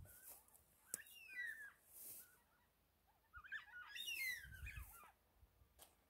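Faint bird calls: two bursts of quick swooping, warbling notes, about a second in and again from about three and a half seconds in, with two sharp clicks.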